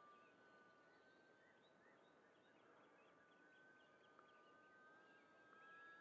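Near silence: faint birdsong, many short chirps, over a faint steady high whine.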